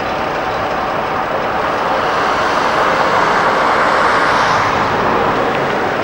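Train running past: a steady rushing noise that swells to its loudest a little past the middle.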